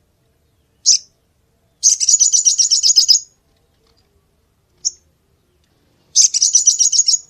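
Sogon (crimson sunbird) calling. Sharp single chips alternate with two fast, very high-pitched trills of about a second each.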